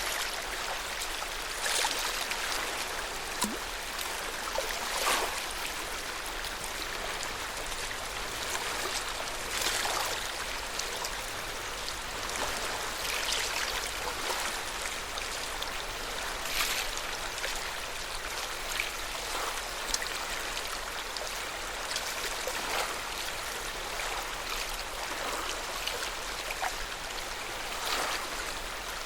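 Lake water lapping at the shore: a steady wash with soft small splashes every second or few.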